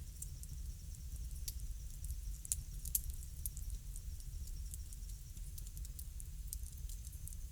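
Bonfire crackling: irregular sharp pops and crackles over a steady low rumble.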